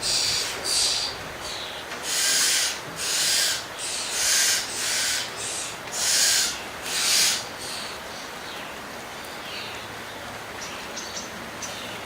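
White cockatoo screeching, a series of about eight harsh, half-second calls over roughly seven seconds, then quiet.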